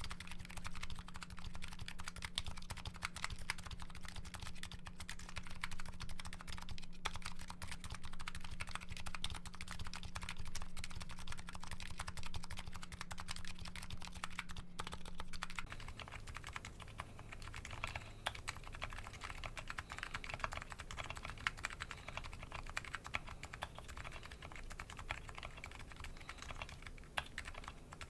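Continuous fast typing on a Nuxros Kraze custom keyboard fitted with MetaKeebs MetaPulse electrocapacitive (EC) switches, the keystrokes clicking in a dense, unbroken stream. A faint steady hum sits underneath and drops in pitch about halfway through, where the typing also becomes a little quieter.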